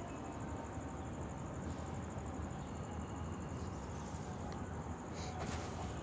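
A steady, high-pitched insect trill over a low background hum, with a few short clicks in the second half.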